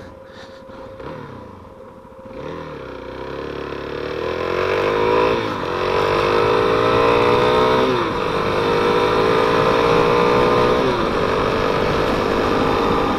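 Suzuki DR-Z400's single-cylinder four-stroke engine pulling away and accelerating. The revs rise and then drop back at three upshifts.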